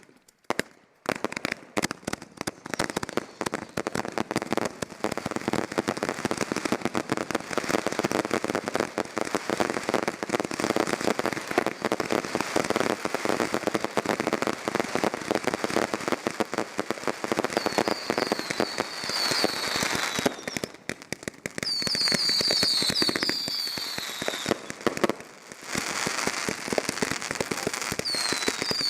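Consumer fireworks going off several at once: a dense, continuous crackle of pops and bangs, joined in the last third by repeated whistling effects.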